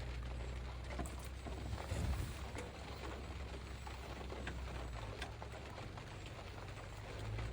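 A low steady rumble with scattered light taps and clicks over it; the loudest bump comes about two seconds in.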